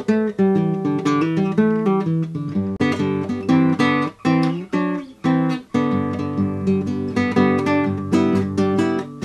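Acoustic guitar music, quick picked notes and strummed chords, ending on a chord left ringing.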